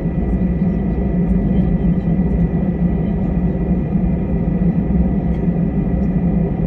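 Airliner jet engines running steadily, heard from inside the passenger cabin: a continuous low rumble with a thin, steady high whine over it.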